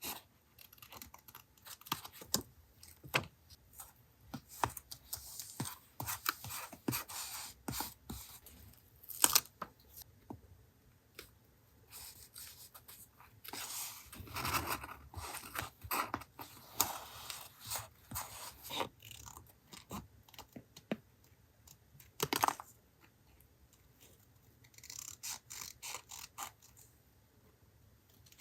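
Paper collage hand-work on a desk: paper being handled, rubbed and scraped, with scattered taps and clicks. The sharpest taps come about a third of the way in and again about three quarters through.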